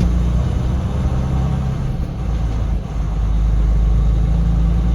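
Semi truck's diesel engine running with a steady low drone, dipping briefly about three seconds in.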